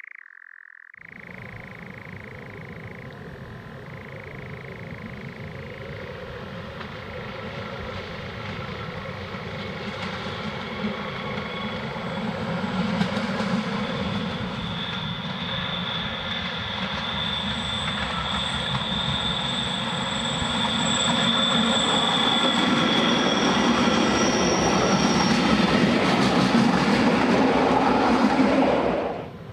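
A metre-gauge electric train, a railcar hauling coaches, approaches and passes close by. Its running noise grows steadily louder over about twenty seconds. High thin squealing tones from the wheels sit above it through the middle and later part, and the sound cuts off suddenly near the end.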